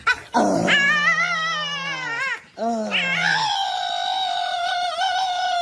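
Dog howling: two long, wavering calls, the first breaking off about two and a half seconds in and the second held steady.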